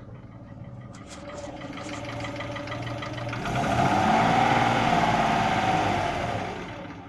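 Car engine being revved: speed climbs over about three seconds, holds near the top, then falls back toward idle near the end. This is an engine with a cold-start knock that appeared after brief oil starvation; under throttle the owner hears no knocking.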